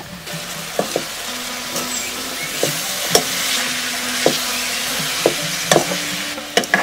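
Cut green ash plantain stir-frying with onions in a hot metal wok: a steady sizzle that starts just after the pieces go in, with a spoon clinking and scraping against the pan about a dozen times as it is stirred.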